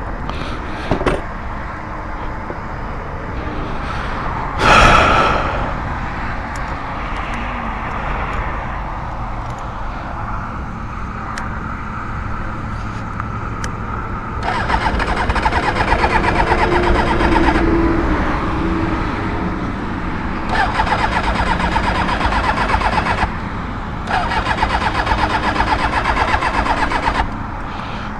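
Kawasaki ZX6R motorcycle's electric starter cranking the engine in three bursts of about three seconds each, without it catching. The rider suspects the carburettors. There is a brief loud noise about five seconds in, over steady traffic background.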